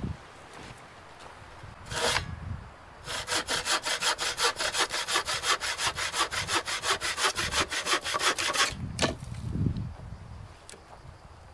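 Hand saw cutting through dead wood in quick, even back-and-forth strokes for about six seconds, with a knock of wood just before it starts.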